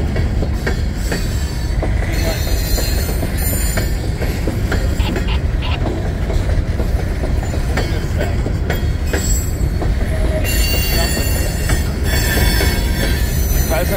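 Empty coal cars of a Union Pacific freight train rolling past: a steady rumble of steel wheels on rail with scattered clacks, and bouts of high-pitched wheel squeal. The longest squeal runs from about ten and a half seconds in.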